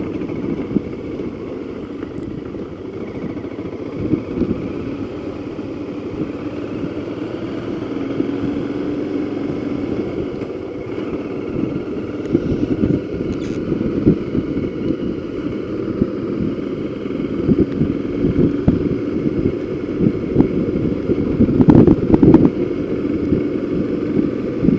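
Motorcycle engine running with a rough low rumble on the microphone, growing a little louder toward the end, with stronger surges about twenty seconds in.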